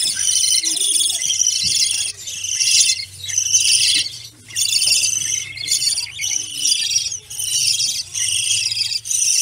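Many caged birds chattering and chirping together, a dense high twittering that comes in bursts with short lulls, over a faint low steady hum.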